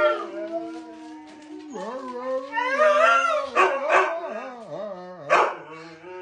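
Husky "talking": drawn-out, howl-like vocal calls that glide and waver up and down in pitch, growing louder midway, with a short sharp yip about five seconds in.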